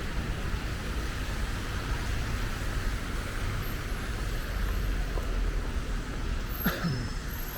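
Steady city traffic noise, with a low wind rumble on the microphone.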